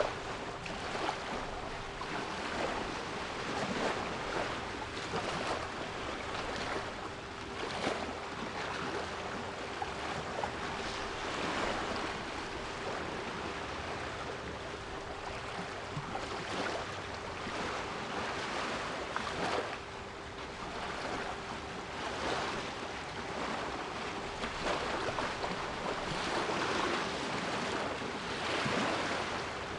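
Sea waves washing in, the surf rising and falling every few seconds, with a steady 396 Hz pure tone held underneath.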